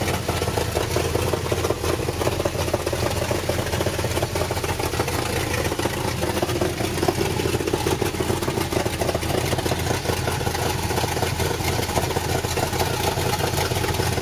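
Chevrolet 454 big-block V8 idling steadily.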